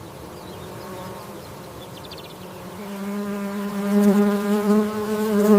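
A flying insect buzzing with a steady-pitched wing hum. It starts about halfway in and grows louder toward the end.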